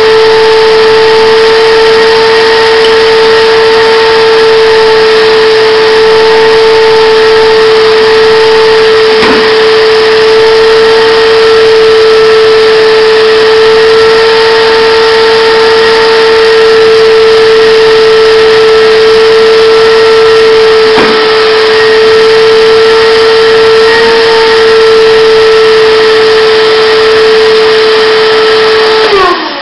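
Shop vac motor running at full suction through a homemade cyclone dust separator: a loud, steady whine over rushing air, with two brief clicks along the way. Near the end it is switched off and winds down, its pitch falling.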